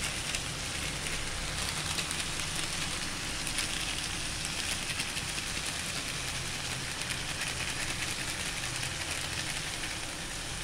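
Chopped onions and tomatoes frying in oil in a kadai: a steady sizzle with fine crackling.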